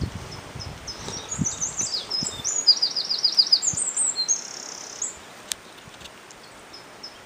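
A songbird singing: high, quick chirping phrases, including a rapid run of about six repeated downward notes, stopping about five seconds in. A few soft low thumps sound in the first two seconds.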